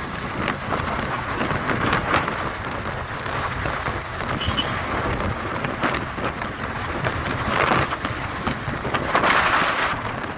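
Wind rushing over the microphone of a moving motorcycle, a steady roar with louder gusts about two seconds in and again near the end.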